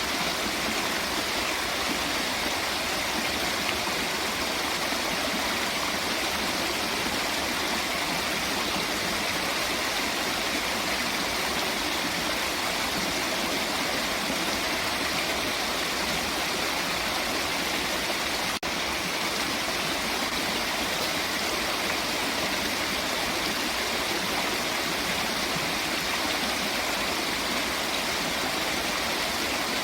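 Running water rushing steadily, as from a stream or waterfall, with an even, unchanging hiss. The sound dips for a moment about eighteen seconds in.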